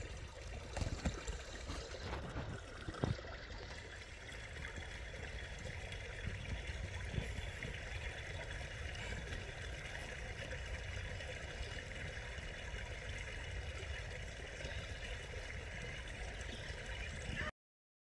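Stream water running steadily, with a few knocks in the first few seconds. It cuts off suddenly near the end.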